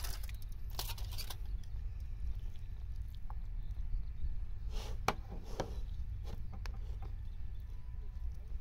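Wooden chopsticks making a few short clicks and scrapes against a plate and a bowl as raw tuna is pushed onto rice, over a steady low rumble.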